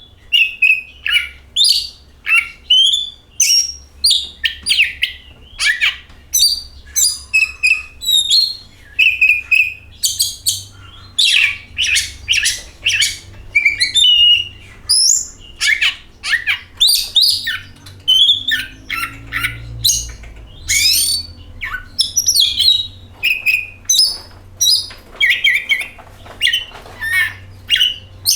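Oriental magpie-robin (kacer) singing a fast, varied song of whistles, chirps and harsher notes, phrase after phrase with only brief gaps.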